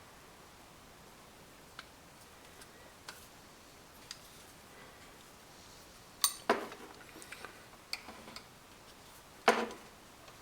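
Faucet parts and hand tools being handled on a workbench: a few light clicks, then two louder clattering knocks of hard parts set down, about six and nine and a half seconds in.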